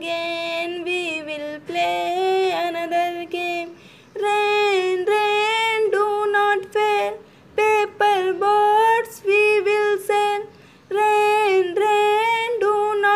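A woman singing a children's rhyme without accompaniment, in short phrases with brief pauses between them; the melody moves higher about four seconds in.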